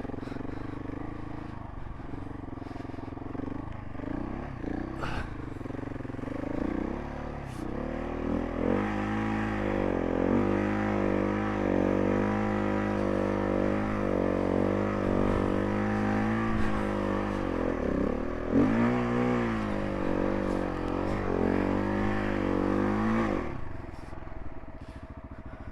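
Single-cylinder adventure motorcycle engine running at low revs. From about eight seconds in it is given more throttle and held at a wavering, labouring pitch that rises and falls, with a brief dip and climb again partway through. It drops back near the end.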